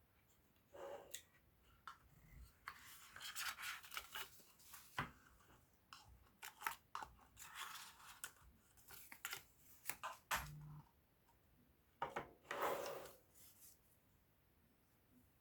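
Packaging being handled by hand: soft rustling and scraping with scattered sharp clicks, coming in irregular spurts, the longest around the middle and near the end.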